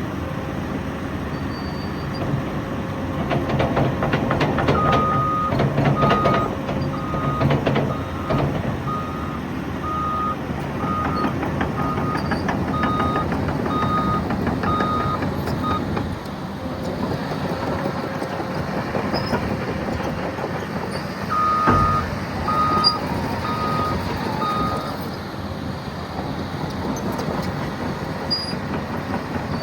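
Caterpillar 963 track loader's diesel engine running under load, louder for a few seconds early on, with its reverse alarm beeping about once a second while the machine backs up: one run of beeps lasting about ten seconds, then a shorter run of a few beeps later.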